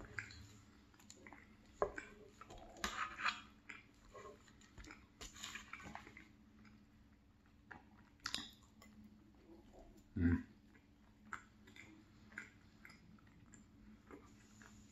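Close-up eating sounds: soft chewing of creamy salmon pie, with quiet clicks and scrapes of a fork cutting into the pie in its aluminium foil tin. One dull low thump about ten seconds in is the loudest sound.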